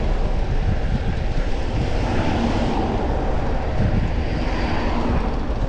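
Steady rush of wind and road noise during a ride on a city street, with traffic sound swelling twice.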